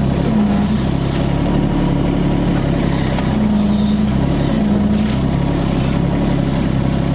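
Yanmar ViO25 mini excavator's three-cylinder diesel engine running steadily under work, with a higher note coming and going three or four times as the hydraulics are worked.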